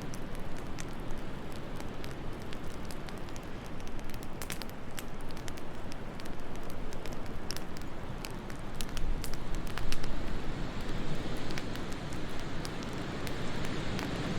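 Wood fire crackling with frequent sharp pops over a steady rushing wind. The wind swells louder a little past the middle.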